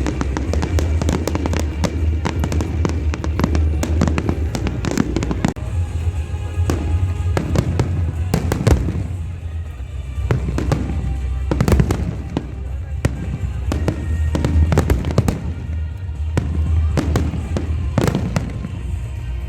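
Fireworks display: a dense run of crackling bursts and bangs, a few louder booms standing out, over music playing underneath.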